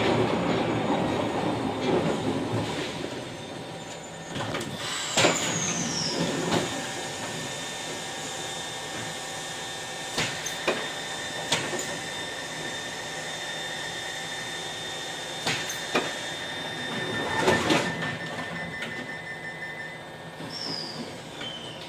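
Glasgow Subway train slowing down: its running noise fades over the first few seconds, followed by a high falling squeal, scattered clicks and knocks, a steady high tone in the middle, and short squeals near the end.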